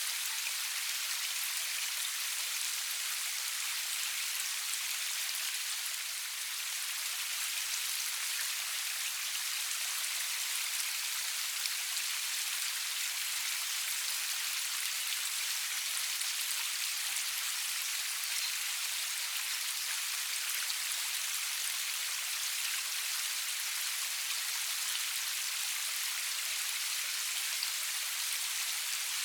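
Steady rain falling, a constant hiss of drops with fine pattering, without thunder or music.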